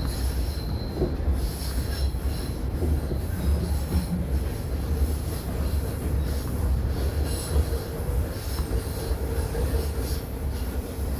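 Toronto subway train running between stations, heard from inside the car: a steady, heavy low rumble of wheels on rail with intermittent high-pitched wheel squeal.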